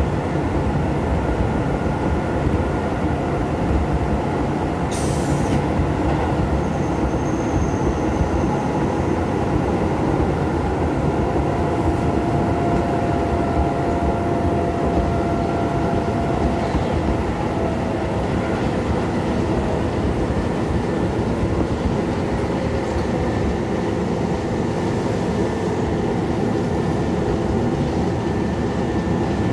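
Keisei 3500 series electric commuter train running, heard from inside the car: a steady rumble of wheels on rail and running gear, with a sharp click about five seconds in.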